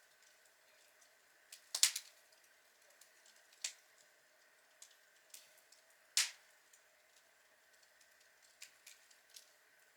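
Outdoor log fire crackling: scattered sharp pops and snaps, with a quick cluster of loud cracks about two seconds in and a single sharp pop a little after six seconds.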